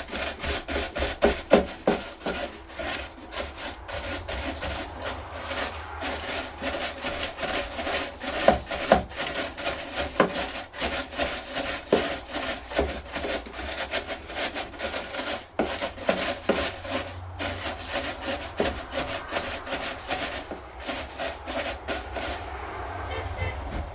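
Continuous rapid scraping and rubbing as packed grass and moisture debris is dug out of a lawn tractor's battery tray, with many short sharp strokes.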